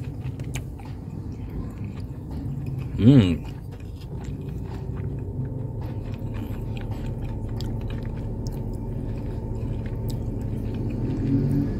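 A person chewing a mouthful of hot beef biryani, with faint wet clicks, and one short hummed vocal sound about three seconds in. A steady low hum runs underneath.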